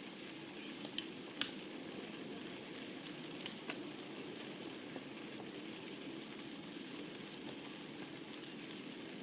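Wood fire burning in a fireplace: a steady rush of flames with sharp crackles and pops from the burning logs, several close together in the first four seconds, then sparser.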